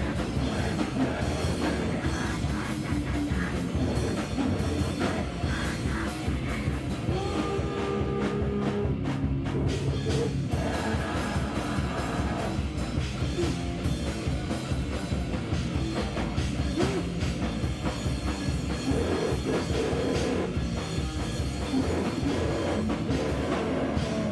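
Live rock band playing a loud, heavy song on drum kit and amplified instruments.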